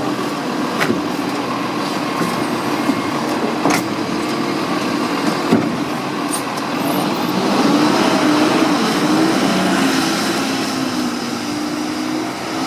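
Garbage truck's engine running, with a few sharp knocks; it grows a little louder about halfway through.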